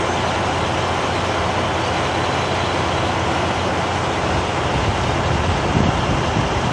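Steady vehicle engine hum and traffic noise, even throughout, with no clear bird calls standing out.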